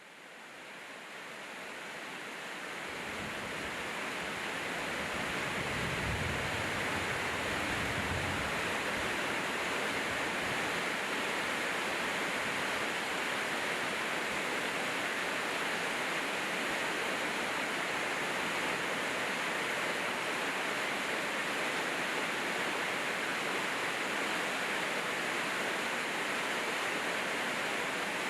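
Steady rain with an even hiss, fading up over the first few seconds, with a few low rumbles in the first ten seconds.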